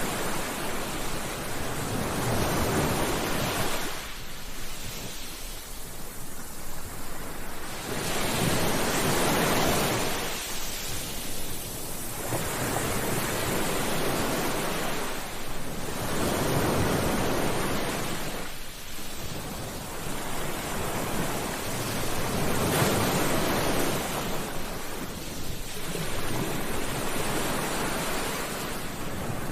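Sea waves breaking and washing on a shore, the rush of surf swelling and fading about every four seconds.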